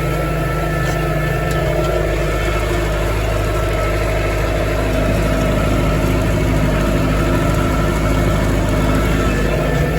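Massey Ferguson farm tractor engine running at a steady speed under load, with no change in pitch.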